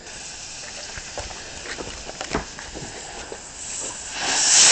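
A few footsteps and crunches over a faint steady hiss, then about four seconds in a firework ignites with a loud rushing hiss that swells to the end.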